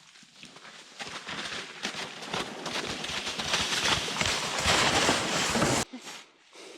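Plastic toboggans scraping and crunching as they are dragged over bare ground, sticks and slushy snow, mixed with footsteps; it grows louder over a few seconds and cuts off abruptly near the end.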